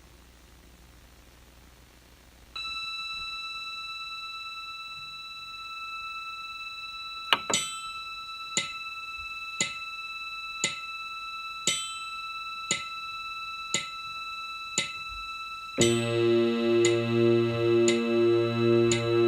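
Electronic ambient music. After a quiet opening, a steady high held tone comes in, then clock-like ticks about once a second join it, and near the end a louder pulsing chord with a low throb enters.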